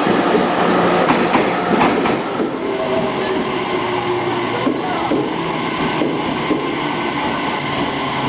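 JR Kyushu 817 series electric train running, a steady rumble with a few sharp clicks from the wheels.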